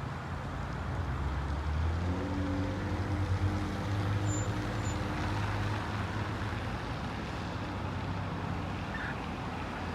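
Fire engine running and pulling away, its low engine note rising about two seconds in, holding, then settling into a steady rumble.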